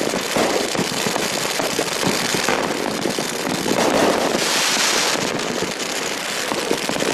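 A 33-shot, 500-gram fireworks cake (Red Lantern Team Coco) going off: a dense, continuous crackle of many small pops. It cuts off suddenly at the end.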